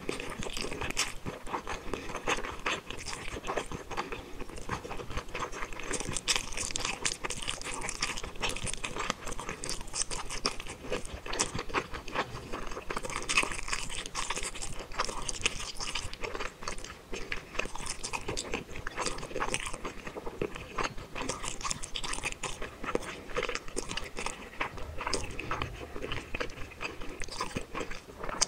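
Close-miked chewing of spicy tteokbokki rice cakes and fish balls, a dense run of small mouth clicks without pause.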